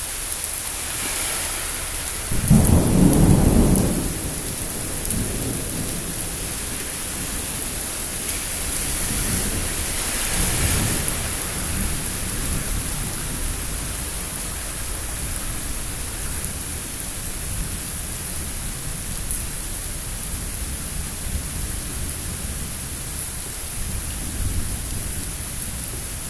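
Thunderstorm: steady rain, with a loud rumble of thunder about two and a half seconds in and fainter rolls of thunder later.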